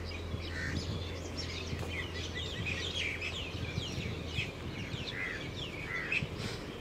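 Small birds chirping: many quick, short down-slurred chirps with a few softer calls mixed in, over a faint low steady rumble.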